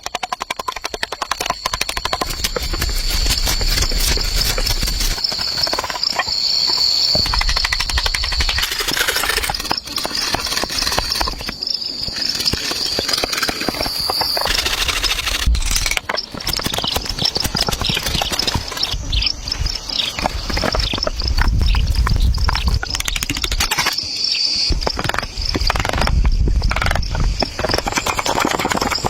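Insects chirring steadily at a high pitch in the woods, with a dense run of clicks, rustles and low thuds from work going on close by.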